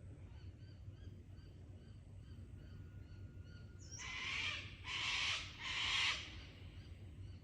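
A large bird gives three loud, harsh calls in quick succession about four seconds in, over soft chirps repeating evenly in the background of the bush.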